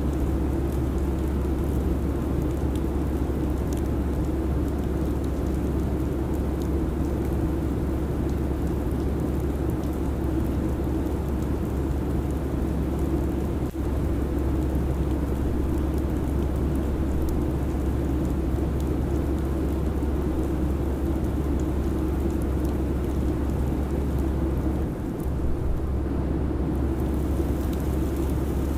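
Airliner cabin noise at cruise: a steady rushing hum with a strong low rumble, dipping briefly near the middle and again towards the end.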